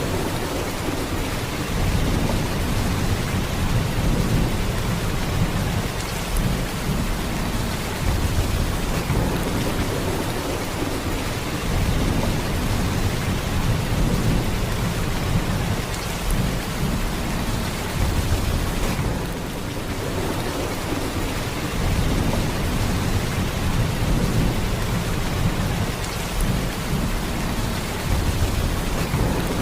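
Heavy rain falling in a steady, unbroken downpour, with much of its weight in a deep low end.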